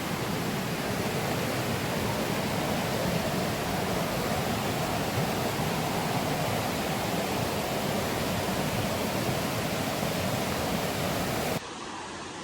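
Waterfall rushing steadily, an even wash of falling water. Near the end it drops suddenly to a quieter, duller rush.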